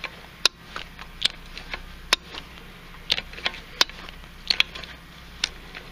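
Sharp metallic clicks, about a dozen, irregularly spaced, from a wrench slowly working a rusted stud out of an air-cooled VW engine case.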